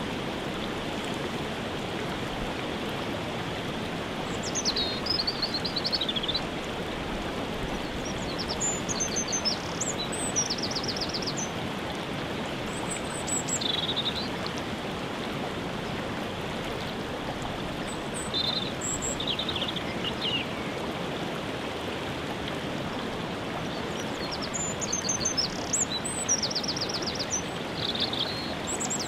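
Steady rush of a waterfall, with songbirds singing short trilled and chirped phrases over it every few seconds.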